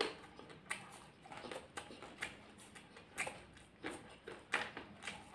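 Close-up mouth sounds of two people chewing rice and vegetables eaten by hand: soft, wet smacks and clicks at irregular intervals, about one or two a second.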